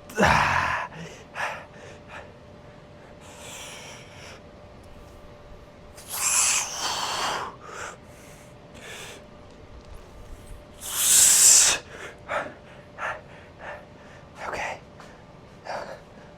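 A man breathing hard and exhaling forcefully through barbell back squat reps: four loud breaths a few seconds apart, the loudest near the end, with faint ticks between them.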